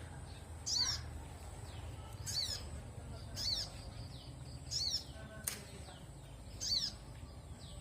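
A songbird repeating a short, high chirped call, five times at intervals of about a second or a second and a half.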